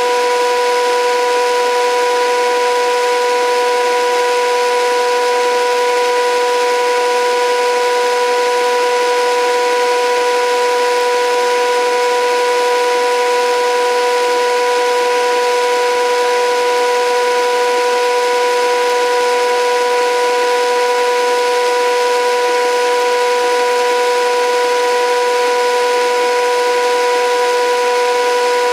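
The HUSTOO 775 DC motor of a modified toy washing machine, driving the drum through a pulley and running at a constant speed with a steady whine.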